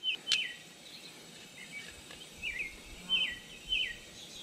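A bird calling over and over in short notes that each drop in pitch, about five of them, with a single sharp click just after the start.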